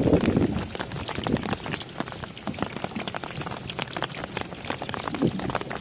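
Rain falling at sea, many drops striking in quick, irregular ticks, with a low rumble in the first half second.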